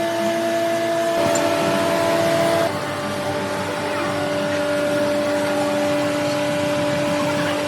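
Factory machinery running with a steady hum over a noisy background; the hum shifts pitch about a second in and again near three seconds in.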